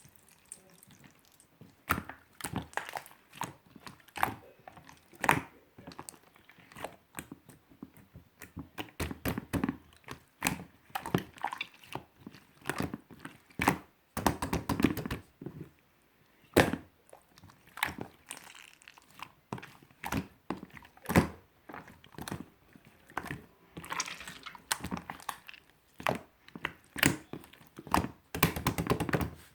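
Slime being squished, pressed and poked by hand, making irregular sticky clicks and pops, with a quick run of clicks midway.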